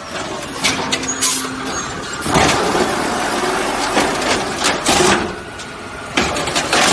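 Garbage truck working with its engine running, through a string of sharp clanks and knocks and a thick rushing clatter from about two seconds in.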